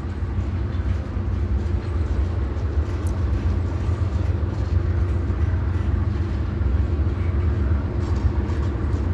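Freight train rolling slowly past, a steady low rumble of the moving cars with no break.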